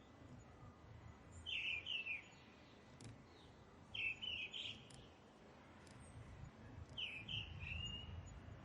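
A bird singing short phrases of a few quick notes, repeated three times about every three seconds, over a faint low rumble.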